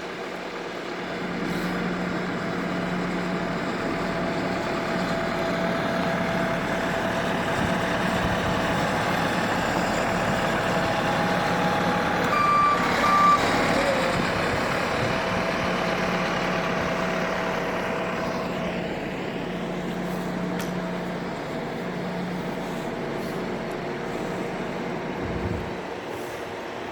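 Large diesel engine running steadily, growing louder toward the middle and fading in the second half, with two short beeps about twelve seconds in.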